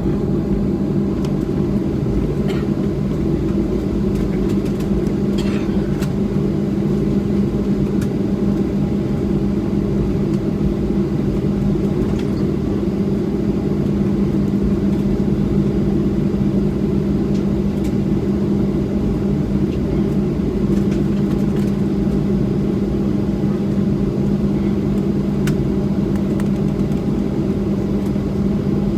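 Steady drone inside a Boeing 737-700 cabin while taxiing: the CFM56-7B engines at idle and the cabin air supply make an even low hum, with a few faint ticks.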